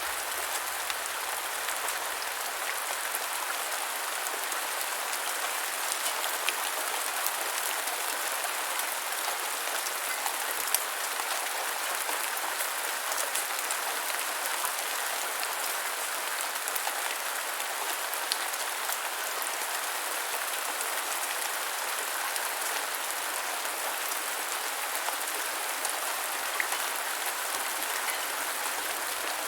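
Steady gentle rain falling, an even hiss with scattered individual drops ticking.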